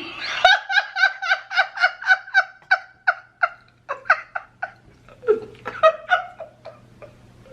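A woman laughing hard in quick repeated high bursts, about four or five a second at first, then slowing into scattered gasping laughs.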